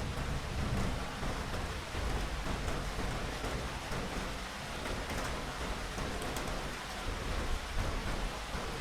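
Steady rain with a low rumble of thunder underneath, the rumble strongest near the start and easing in the middle.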